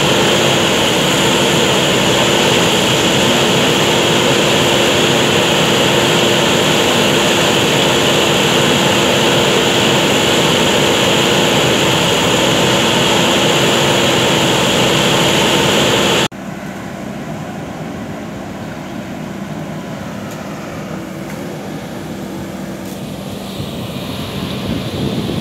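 JCB backhoe loader's diesel engine running steadily, loud and close. About two-thirds of the way in it cuts off abruptly to a quieter, more distant engine drone.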